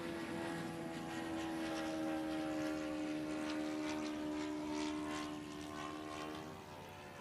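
Jet turbine of a BVM Bandit RC model jet (JetCat P80SE) whining steadily, its pitch slowly sinking as it fades away near the end.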